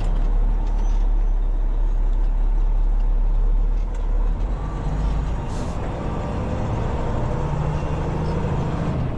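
Semi truck's diesel engine running, its note rising about four seconds in as the truck pulls on, with a brief hiss partway through.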